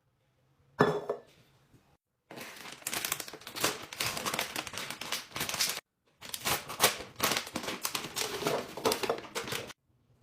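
Plastic grocery packaging crinkling and rustling as it is handled, after a single knock about a second in. The rustling comes in two spells that each cut off suddenly.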